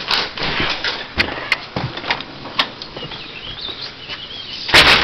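Rustling handling and movement noise, with a few sharp clicks and a louder burst of noise near the end.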